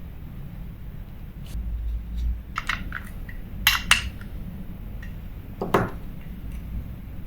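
Small metal fishing-reel parts and tools clicking and clinking as a Daiwa 1000X reel is handled and reassembled. There are a handful of sharp clinks, the loudest about four seconds in and again near six seconds.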